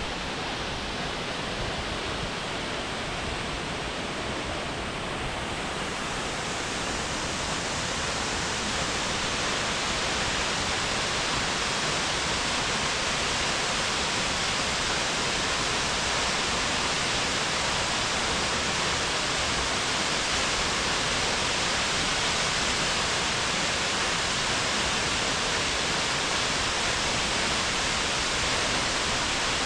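Steady rush of a large waterfall, Akiu Great Falls, a continuous even roar of falling water that grows a little louder over the first ten seconds and then holds.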